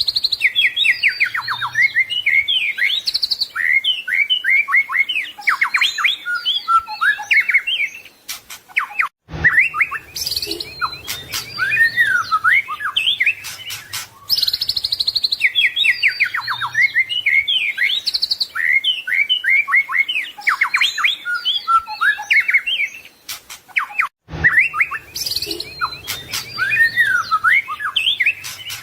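White-rumped shama (murai batu) singing a fast, varied song of whistles, trills and chirps. It is a looped recording: the same passage repeats about every fifteen seconds, broken each time by a short silent gap.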